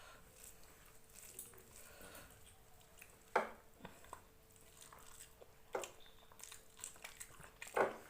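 Close-up eating sounds of rice and chicken curry being chewed, quiet mouth noises with three sharp smacks or clicks spread through, the loudest near the end.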